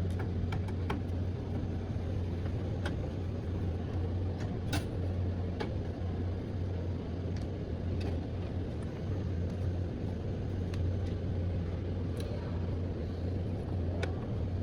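Small clicks and taps of computer case parts being handled during disassembly, with one sharper knock about five seconds in, over a steady low hum.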